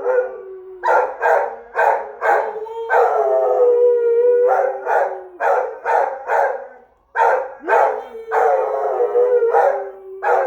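Dog howling in bouts, short rapid yips running into long held, slightly falling howl notes, several times over.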